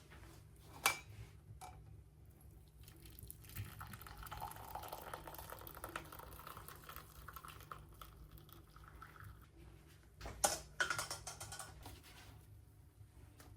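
Liquid being poured into a cup or container for several seconds, with sharp clinks and knocks of kitchenware before and after.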